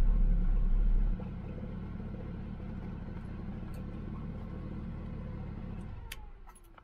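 Mitsubishi Eclipse GSX's turbocharged 4G63 inline-four idling, heard inside the cabin. About a second in, the loud low rumble drops to a quieter, steady idle as the idle settles on a newly fitted idle air control valve. Near the end the engine is switched off and dies away.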